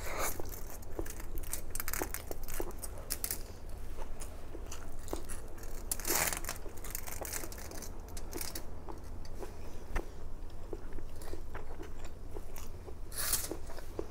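Close-up mouth sounds of a person eating instant noodles and sausage with her fingers: chewing and lip-smacking with many small wet clicks, and a couple of longer breathy noises about six seconds in and near the end.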